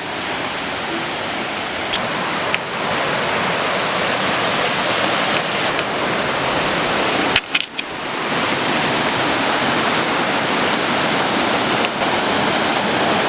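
Steady rush of a creek's flowing water. A sharp click about seven seconds in, with a brief drop in the sound.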